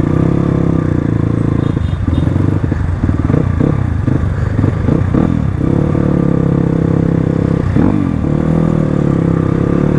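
Crossfire RM250 dirt bike engine running under way, its revs dropping and picking up again several times between about two and six seconds in, with one more brief dip near eight seconds, as with gear changes and throttle changes.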